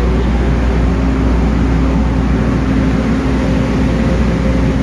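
Steady low drone of a car ferry's onboard machinery, with a constant hum over it.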